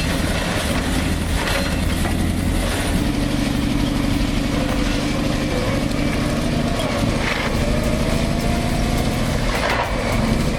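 Heavy bulldozer diesel engine running steadily, with a few short metallic clanks.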